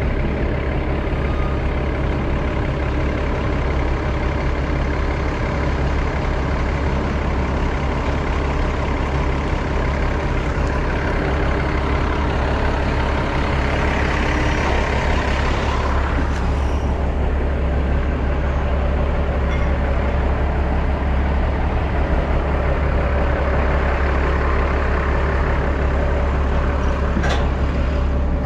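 Tractor-trailer's diesel engine idling steadily with a deep hum. A rushing noise builds and stops suddenly about sixteen seconds in, and a sharp click sounds near the end.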